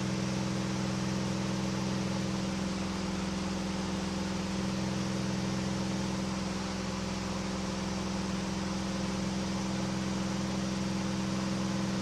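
Engine and propeller of a KR2 homebuilt light aircraft droning steadily in flight, heard from inside the cockpit with a hiss of air noise; the engine is running smoothly.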